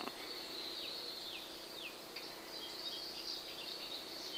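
Birds singing outdoors: a few short, high chirps falling in pitch, about half a second apart, over a steady high trill, with more varied warbling near the end.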